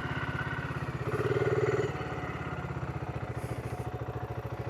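BSA 650 Scrambler's single-cylinder 650cc engine idling with an even, rapid pulse, swelling briefly about a second in.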